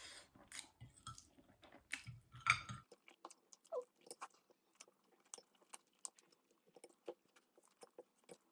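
A person chewing spaghetti close to the microphone: soft, irregular wet mouth clicks and smacks.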